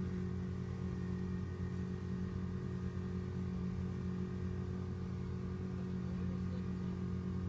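Boat engine running steadily at constant speed, a low even hum with no change in pitch.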